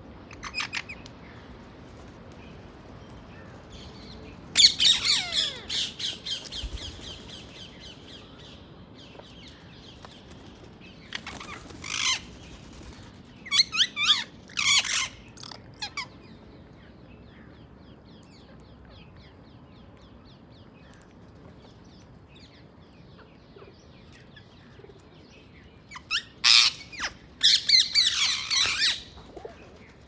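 Birds giving harsh, rapid chirping and squawking calls in five separate bursts, the loudest about four and a half seconds in and again near the end, with quieter stretches of faint outdoor background between them.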